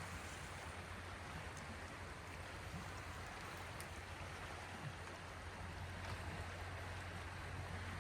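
Small waves of the Gulf of Finland washing on the shore: a steady, faint hiss of water, with a low steady hum underneath.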